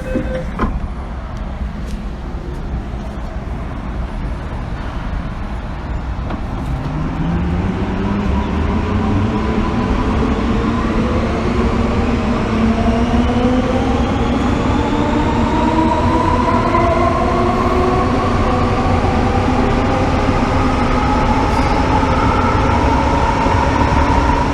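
MTR M-Train electric multiple unit pulling away, heard from inside the car. After a knock near the start and a few seconds of low rumble, the traction motors' whine sets in about six seconds in, with several tones climbing steadily in pitch together as the train accelerates.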